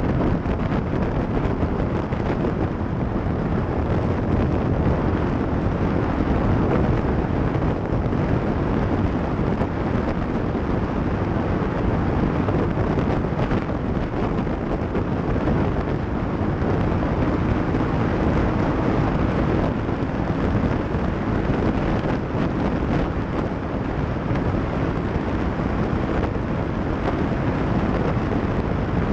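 Off-road vehicle driving, its engine running under steady wind buffeting on the microphone.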